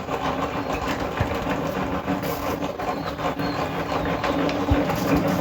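A small motor running steadily with a constant hum, with irregular clicks and knocks over it.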